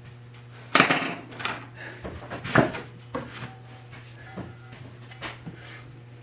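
Knocks and clatter of hard parts being handled against a wooden machinist's chest during reassembly, loudest about a second in and again midway, then fewer, softer taps. A steady electrical hum runs underneath.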